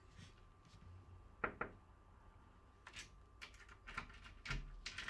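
Faint clicks and light rattling of a key being worked in a wooden wardrobe's door lock, with two sharper clicks about a second and a half in and a scatter of lighter clicks later.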